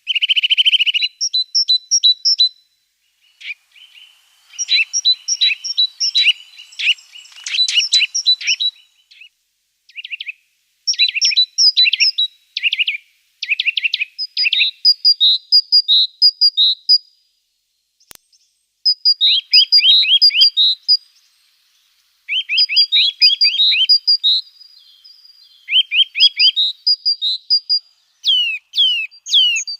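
Small songbirds singing in a string of short phrases of rapid, high, chirping notes, often quick downward slurs, with brief pauses between phrases.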